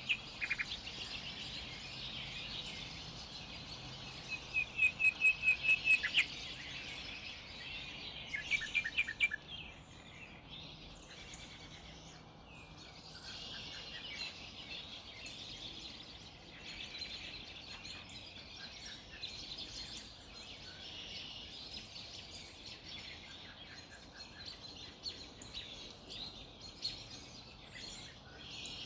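A chorus of several birds singing and calling together, with a loud rapid run of about eight repeated notes about five seconds in and another quick trill a few seconds later.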